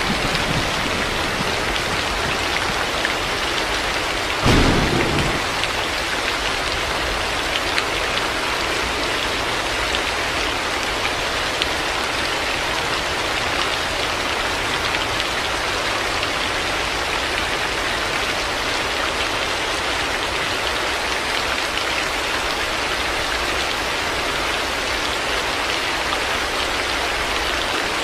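Heavy rain falling steadily. A short, loud clap of thunder comes about four and a half seconds in.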